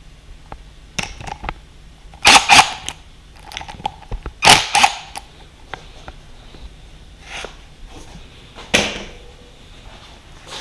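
Tools and parts being handled at the workbench during a dirt bike teardown: a few sharp knocks and clatters in pairs, about two seconds in, again around four and a half seconds, and a single one near the end, with lighter taps between.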